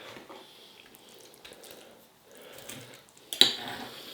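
Quiet eating sounds at a plate, with one sharp clink of cutlery on the plate about three and a half seconds in.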